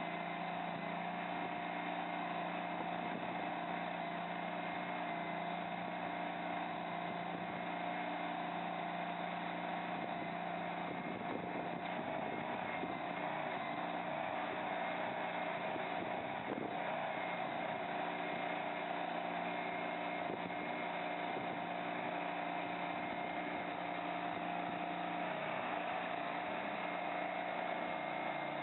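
Mini skid steer loader's engine running steadily, with a steady hydraulic whine over it.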